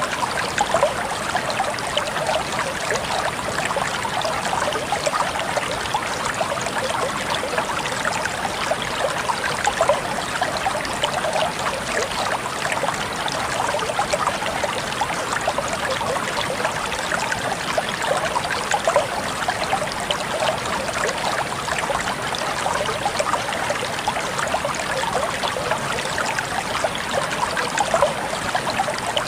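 Water flowing in a stream, a steady babble and trickle of many small splashes.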